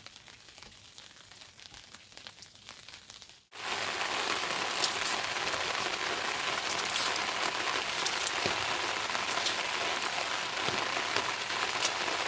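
Heavy rain pouring down steadily, with sharp individual drops ticking through the hiss. It cuts in suddenly about a third of the way through, after a quieter stretch of scattered light ticks.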